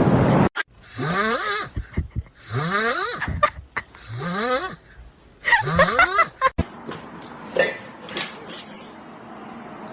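Snoring: four long snores, each rising in pitch, about a second and a half apart, followed by a quieter stretch with a few faint small sounds.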